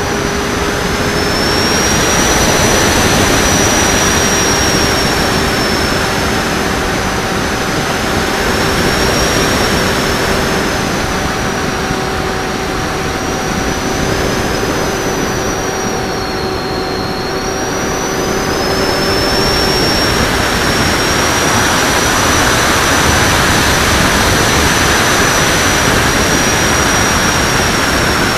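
Electric motor and propeller of a Raptor FPV radio-control plane in flight, heard from its wingtip over heavy wind rush: a high motor whine that rises and falls with the throttle. A lower steady tone drops out about twenty seconds in.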